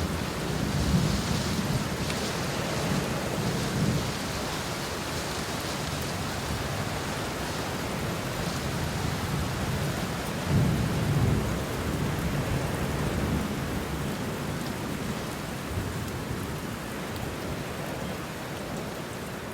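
Steady rain with rolling thunder: low rumbles swell in the first few seconds and again about ten seconds in, over the even hiss of falling rain.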